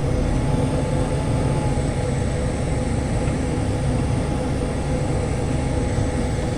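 Case IH Maxxum 150 tractor's diesel engine running steadily as the tractor is driven slowly into a shed.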